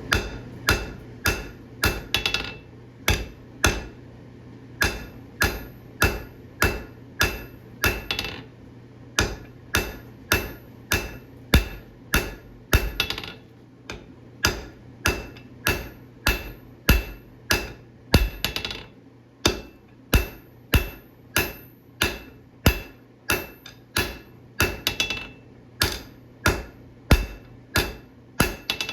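Hammer blows on hot alloy steel stock at the anvil while forging, struck in runs of about two to three ringing blows a second with short pauses between runs.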